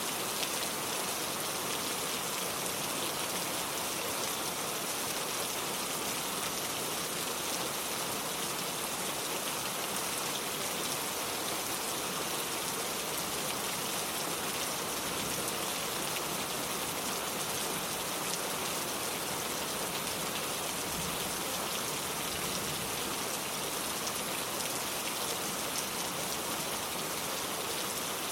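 Steady rain falling, a dense even patter of drops on water and wood.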